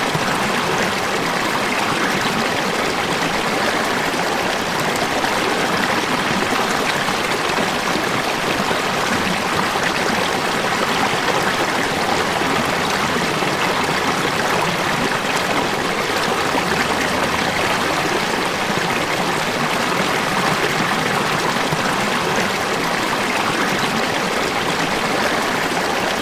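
Falling water rushing in a steady, unbroken stream, like a small waterfall, with no breaks or changes in level.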